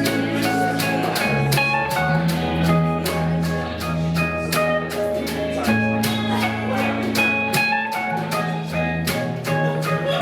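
Live band playing a jazz tune: a walking bass line under guitar chords, with a drum kit keeping time on regular cymbal hits.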